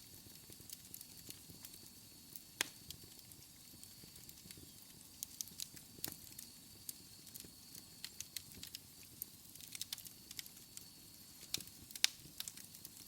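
Wood fire crackling in a fireplace: irregular sharp pops and snaps over a soft low rustle, with a faint steady high whine underneath. The loudest pops come about two and a half seconds in and near the twelve-second mark.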